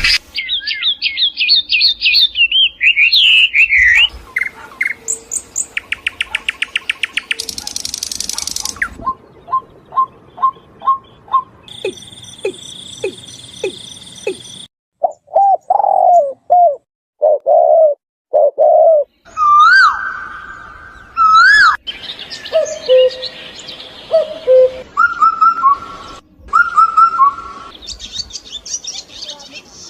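A string of different bird calls, one kind after another with abrupt cuts between them: descending chirps, a fast trill, evenly spaced piping notes, low repeated coos and rising whistles.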